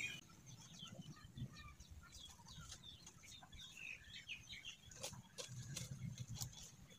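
Faint background of scattered short bird-like chirps and a few soft clicks.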